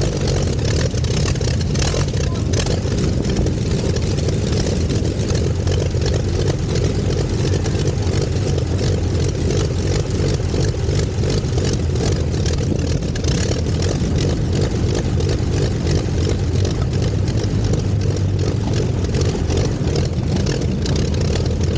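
The Luxior's Curtiss OX-5 V8 aero engine running steadily at low revs as the car rolls slowly along.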